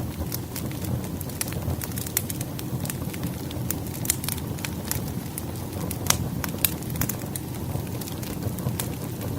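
Burning firewood crackling: a low steady rumble of the fire with frequent irregular sharp pops and snaps.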